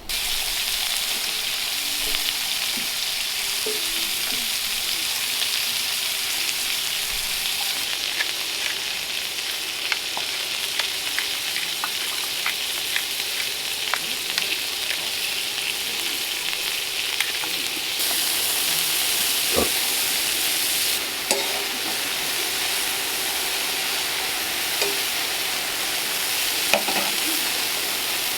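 Beef burger patties sizzling and frying in hot fat over a campfire: a steady sizzle with scattered small pops and crackles.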